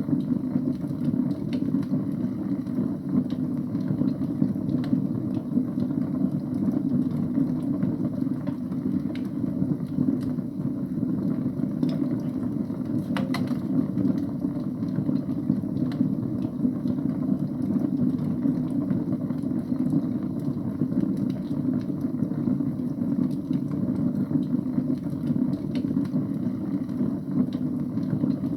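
Wood fire burning in a fireplace: a steady low rumble of flames with sparse crackles and pops, one sharper pop about thirteen seconds in.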